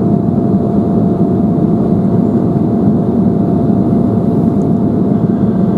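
Steady cabin noise of an Embraer 175 climbing out after take-off: the even hum of its GE CF34 turbofans and the rush of air past the fuselage, heard from inside the cabin. A thin steady tone sits over the deep noise.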